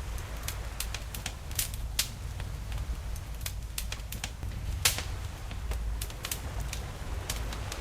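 Campfire crackling with irregular sharp pops, the loudest about five seconds in, over a steady low wash of ocean waves.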